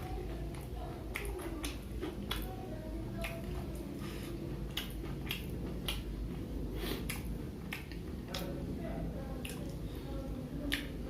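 A person chewing fried snacks close to the microphone, with many sharp, irregular mouth clicks and smacks.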